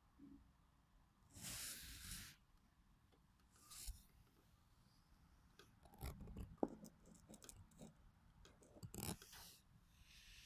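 Faint, intermittent rustling and scraping, with a cluster of light clicks in the middle.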